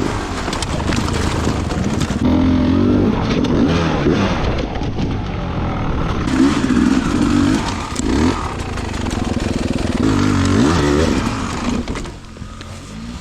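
Dirt bike engine revving up and down while riding, its pitch rising and falling. It changes abruptly a couple of times where clips are joined, and drops off near the end.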